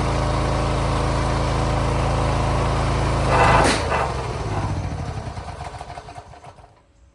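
An engine running steadily, with a brief loud rush about three and a half seconds in, after which the engine sound dies away over a few seconds.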